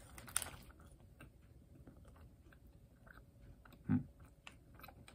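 Biting into a warm soft pretzel stick, then quiet chewing with faint scattered mouth clicks. One short, louder low sound about four seconds in.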